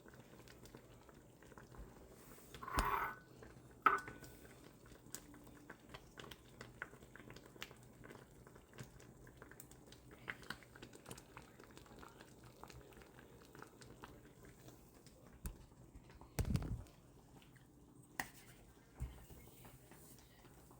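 Quiet kitchen handling sounds of cooking at the pot: scattered light clicks and taps, a short rustling scrape about three seconds in, a sharp click just after it, and a dull thump near the end.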